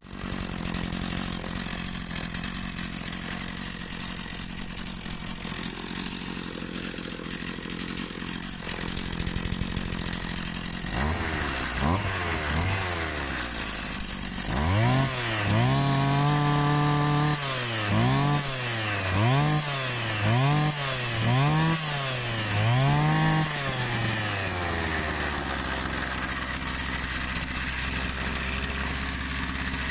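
Dolmar MS 4010 brushcutter's small two-stroke engine, newly fitted with a piston ring, running without its shaft. About halfway through the throttle is blipped several times, the revs rising and falling sharply, and then it settles back to a steady idle.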